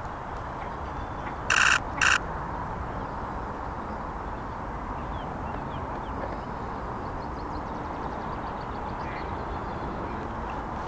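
Outdoor lakeside ambience: a steady hiss with faint small-bird chirps, broken about one and a half seconds in by two short, loud, harsh bursts about half a second apart.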